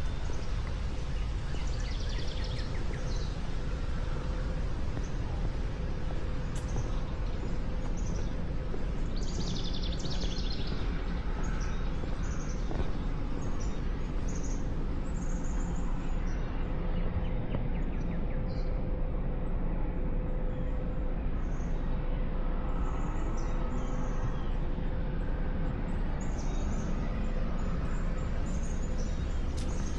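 Birds chirping, with short high calls scattered throughout, over a steady low rumble and a faint steady hum.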